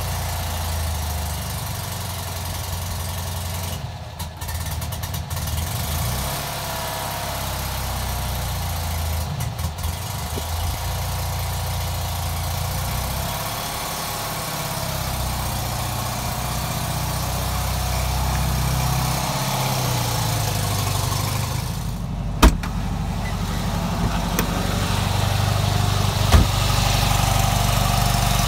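Fiat 500-based Francis Lombardi My Car's air-cooled two-cylinder engine idling just after being started. Two sharp clicks come about two-thirds of the way through and again near the end.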